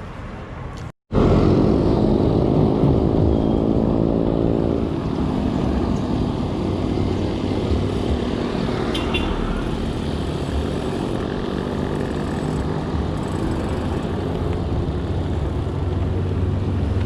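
A motor vehicle's engine running close by for a few seconds, starting abruptly after a brief cut-out about a second in, then steady road traffic noise with a low hum.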